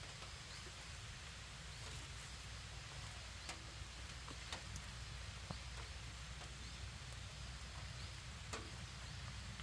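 Grass being cut by hand with a sickle: a few scattered sharp snicks over a steady low rumble of wind on the microphone.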